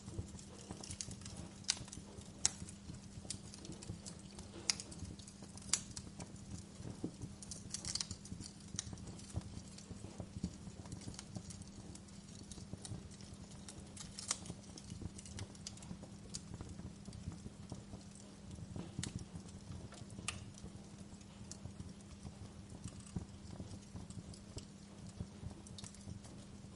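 Wood fire crackling in a fireplace: irregular sharp pops and snaps, a few of them louder, over a dense low crackle and a steady low hum.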